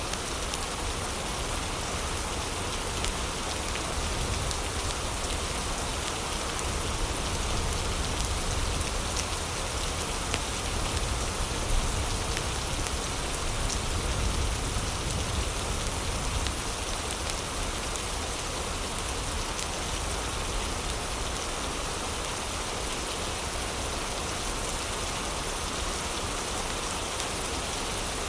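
Heavy rain falling steadily with a low rumble beneath it, and now and then a faint crackle from a fireplace.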